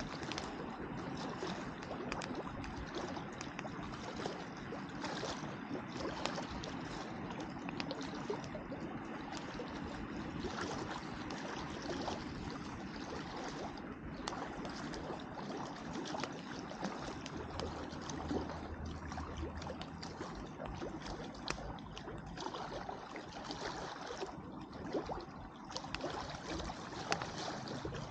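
Wood campfire burning with frequent sharp crackles and pops, over a steady wash of lake water lapping at the shore.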